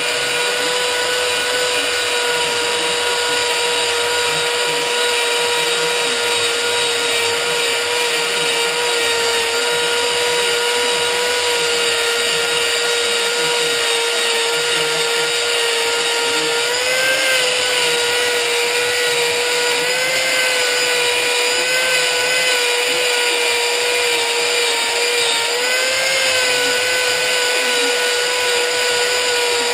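Power tool spinning a rubber decal-eraser wheel against a motorcycle tank's paint, running with a steady high whine. Its pitch wavers briefly a few times, most clearly about halfway through and again near the end, as the wheel is pressed against the surface.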